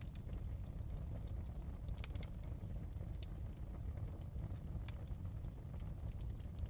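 Wood fire crackling: scattered sharp pops and clicks, a few stronger ones among them, over a steady low rumble.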